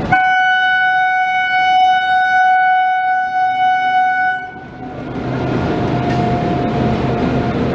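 Indian Railways train horn sounding one long, steady blast of about four and a half seconds. It stops abruptly and gives way to the rumble of the passing train.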